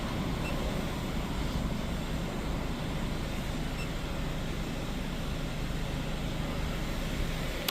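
Steady low mechanical rumble with an even hiss above it, as from an idling car, with no distinct knocks or changes.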